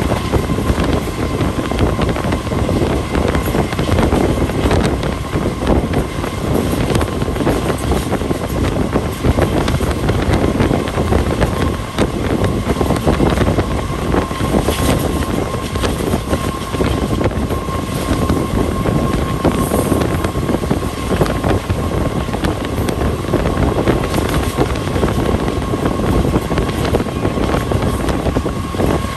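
Passenger train running at speed, heard from an open coach window: a steady rumble and rapid clatter of steel wheels on the rails, with wind buffeting the microphone and a thin steady whine throughout.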